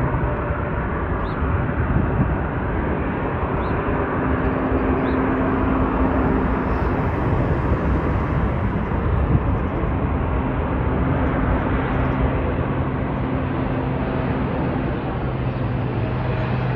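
Jet airliner taking off: a loud, steady rumble of engine noise with a faint hum in it.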